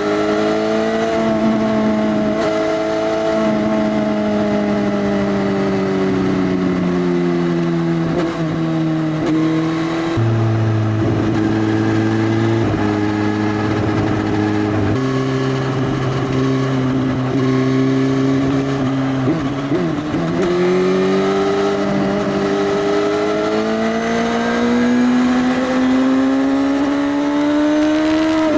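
Suzuki GSX-S1000 inline-four running through an Arrow full-system exhaust with no dB killer, under way. Its pitch sinks slowly as the bike slows, holds fairly steady with a couple of sudden changes in tone around the middle, then climbs again near the end as it accelerates.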